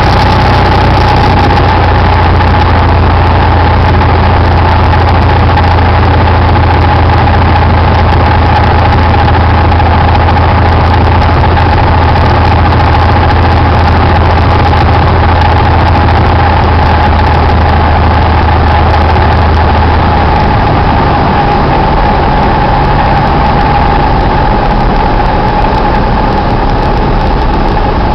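Cessna 172's piston engine and propeller running with a loud, steady drone and a steady whine on top; the low drone changes pitch about two-thirds of the way through, a change in engine power.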